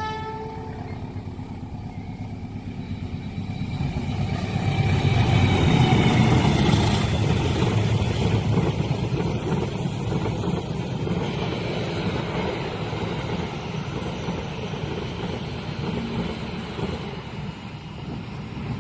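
Train passing over a level crossing: the end of its horn blast at the start, then a rumbling run of wheels on rail that builds, is loudest from about five to eleven seconds in, and slowly eases off.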